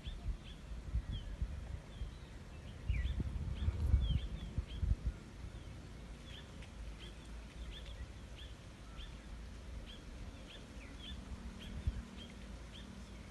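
Small bird chirping over and over, short high notes about twice a second. Low rumbling thumps rise about three to five seconds in.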